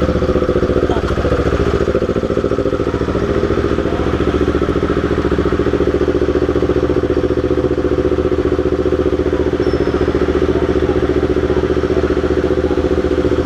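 A Kawasaki Ninja 250's parallel-twin engine running steadily at low speed near idle, heard close up from the rider's seat.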